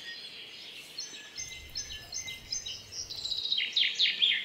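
A songbird singing: a string of short, high repeated notes, then a quicker run of notes sweeping downward near the end.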